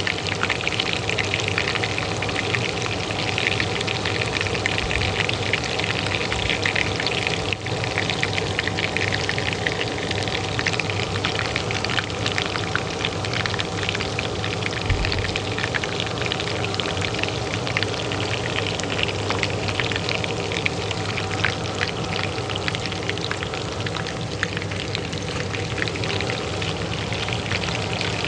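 Oil frying in a pan with dense, steady crackling, over the steady hum of a kitchen range hood fan.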